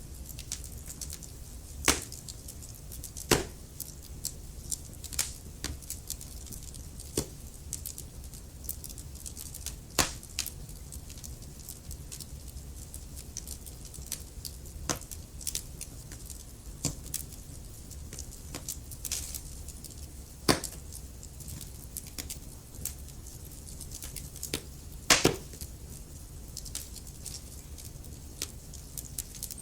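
Wood fire in a fireplace crackling, with irregular sharp pops every second or so over a low steady rumble; the loudest pops come about two, three and ten seconds in, and twice more near twenty and twenty-five seconds.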